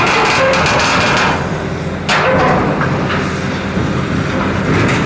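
Heavy diesel demolition machinery running with a steady rumble, broken by several loud metallic clanks and scrapes.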